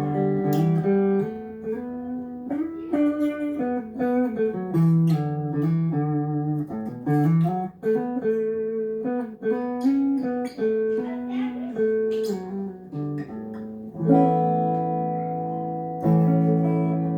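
Giannini GGX-1HH electric guitar being sound-tested after servicing. It plays single-note melodic runs, then strummed, held chords from about three-quarters of the way in.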